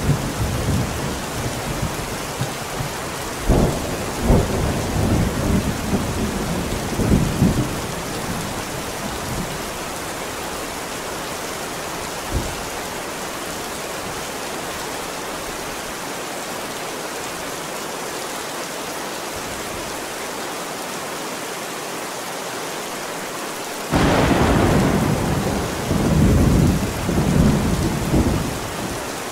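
Steady heavy rain with thunder. Low rolling rumbles come in the first third, with a couple of sharp cracks about three and a half and four seconds in. Then there is only rain for about fifteen seconds, until a sudden loud thunderclap near the end that rumbles on.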